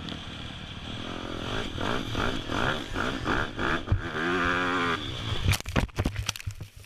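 450cc dirt bike engine revving in repeated pulses, then held high in one long rise and fall. About five and a half seconds in come several sharp knocks and clatters as the bike crashes.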